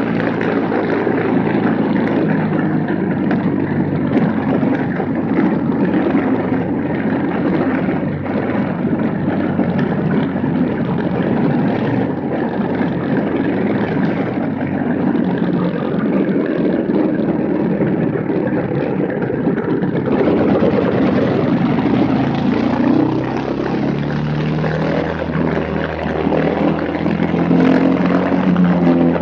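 Racing kart's Briggs & Stratton Animal single-cylinder four-stroke engine running hard without a restrictor, its pitch rising and falling. From about two-thirds of the way in, the note settles lower.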